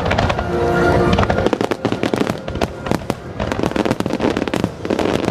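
Aerial fireworks crackling: a dense rapid stream of sharp pops and crackles. In the first second or so, steady held tones of music sound over it.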